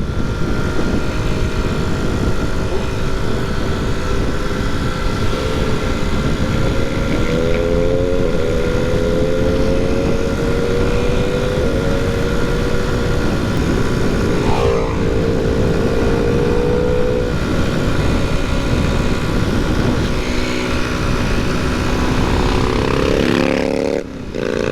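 Honda C90's small single-cylinder four-stroke engine running hard under way, its pitch slowly rising and falling, with two brief dips where it drops back, likely at gear changes. Heavy wind rush on the microphone underneath.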